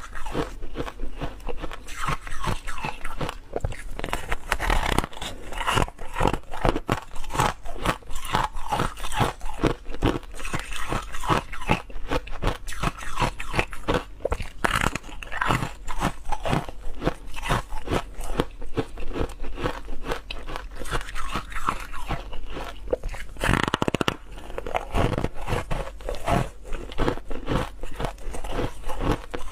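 Ice being bitten and chewed close to the microphone: a continuous run of rapid, irregular crunches.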